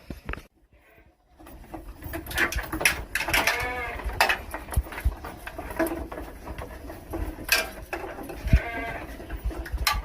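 Goats bleating several times, with a long wavering bleat about three seconds in and more bleats later on.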